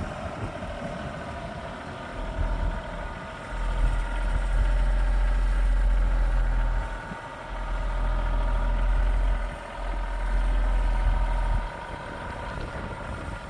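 Farm tractor's engine running steadily. A heavy low rumble comes and goes in gusts from about two seconds in until near the end, typical of wind buffeting the microphone.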